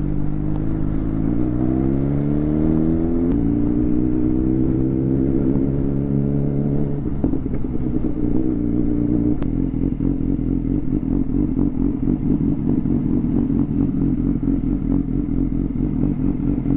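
BMW S1000XR inline-four motorcycle with a straight-pipe exhaust pulling up through the revs, its pitch rising, dropping at a gear change about three seconds in and climbing again. After about seven seconds it comes off the throttle and settles into running steadily at low revs.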